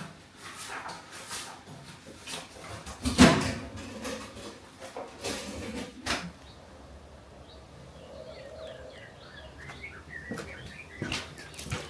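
Household handling sounds: rustling swishes and knocks, the loudest swish about three seconds in and a sharp click near six seconds. Faint bird chirps come in the second half.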